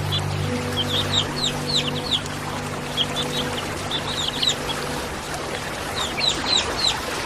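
Birds calling in three quick bursts of short, falling chirps over a steady rush of falling water. A low steady hum fades out about five seconds in.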